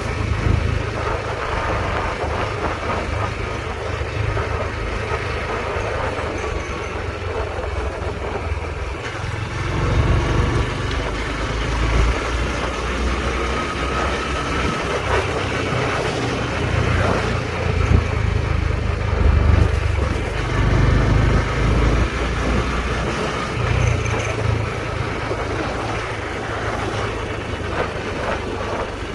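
Honda Trail 125's single-cylinder engine running steadily under way, with a heavy rumble low down throughout.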